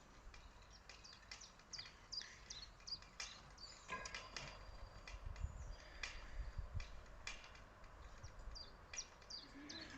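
Small birds chirping, many short high chirps that drop in pitch, coming thickly through the middle seconds, over a faint low rumble.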